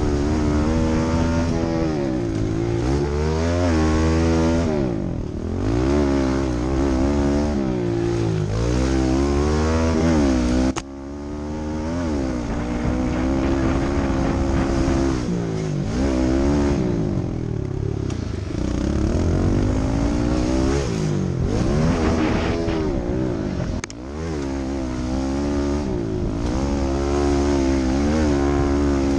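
Kawasaki KLX110 pit bike's small four-stroke single-cylinder engine revving up and easing off over and over as it is ridden around a dirt track. The sound drops out briefly twice, about 11 and 24 seconds in.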